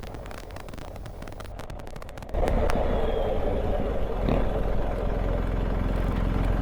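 BMW R1250GS Adventure's boxer-twin engine and road noise while riding, fairly quiet at first, then jumping suddenly louder a little over two seconds in and running on steadily.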